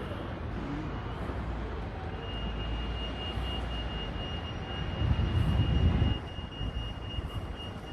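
Low traffic rumble on a city street, with a thin steady high whine from about two seconds in. A louder low rumble swells around five seconds in and drops away a second later.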